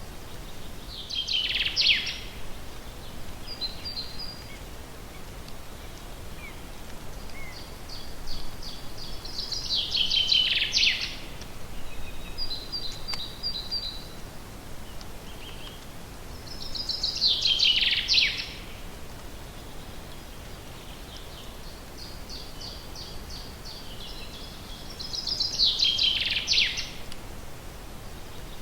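A songbird repeating the same song phrase four times, about every eight seconds: a rapid run of notes falling in pitch. Softer short chirps come between the phrases.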